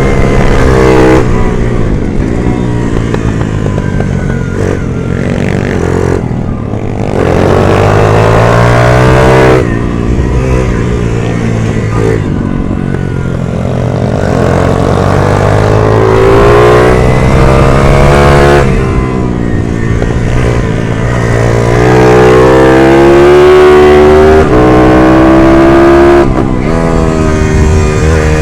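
140cc racing minibike engine revving hard, its pitch climbing and dropping again and again, with short breaks where the throttle is shut.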